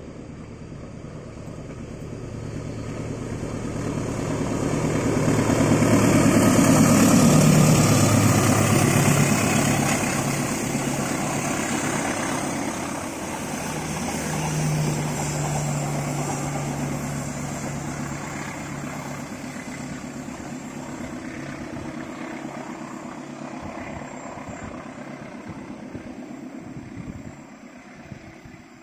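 Diesel-electric locomotive hauling a passenger train passes by: its engine grows louder as it approaches, peaks about seven seconds in with the engine note dropping in pitch, and then the coaches roll past with steady wheel-on-rail noise that slowly fades as the train moves away, dropping off near the end.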